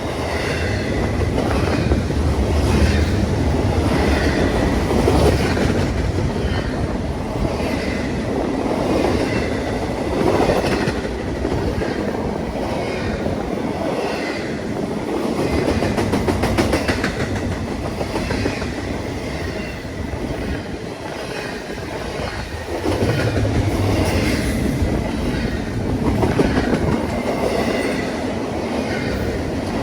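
A train rolling past on the track: a steady rumble of railcars, with the wheels clicking over rail joints in a repeating clickety-clack.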